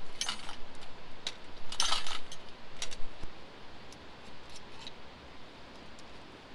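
Small objects being handled: a few light clinks and short scraping, rustling sounds, the loudest about two seconds in.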